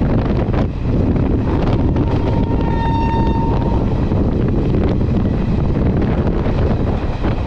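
Passenger train running at speed: a steady rumble of wheels on the track with wind buffeting the microphone. About two seconds in, a thin steady high tone is heard for about a second and a half.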